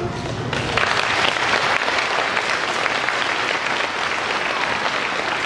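Audience applauding at the end of a children's choir song, starting about half a second in and going on steadily.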